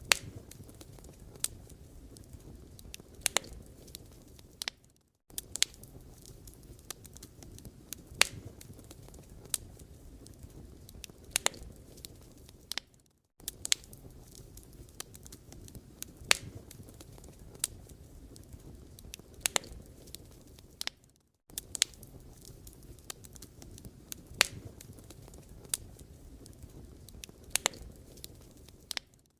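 Wood fire crackling, with irregular sharp pops from the burning logs over a low steady rumble. The sound drops out briefly about every eight seconds.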